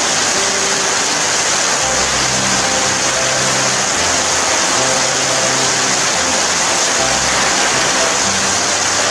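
Steady rain falling, with soft low sustained musical notes that change pitch every second or so underneath.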